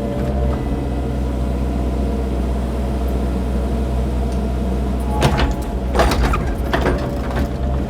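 Cat mini excavator's diesel engine running steadily while digging. A few sharp knocks and clanks come in the second half.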